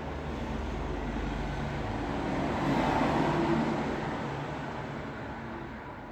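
Road traffic noise, with one vehicle passing that swells to its loudest about three seconds in and then fades away.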